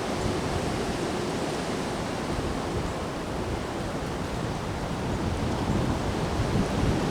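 Windstorm wind rushing steadily, easing slightly in the middle, with a gust buffeting the microphone with a low rumble near the end.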